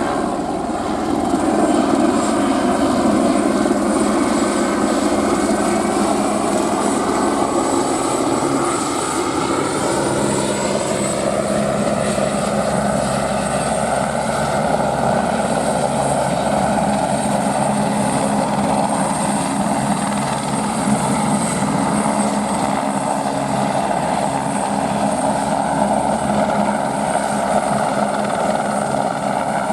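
Airbus AS350 helicopter's rotor and turbine running steadily, the sound climbing in pitch about ten seconds in.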